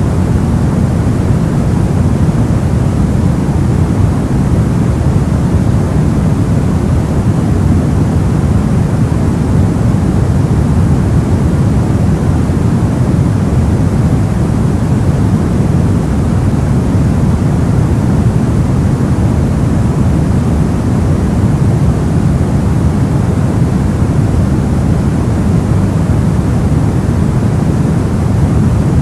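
Steady, unbroken soft white noise, weighted toward a deep low hiss, with no rise, fall or distinct events.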